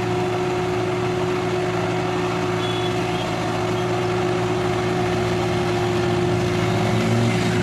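Hindustan 60 tractor's diesel engine running steadily, getting a little louder in the last couple of seconds.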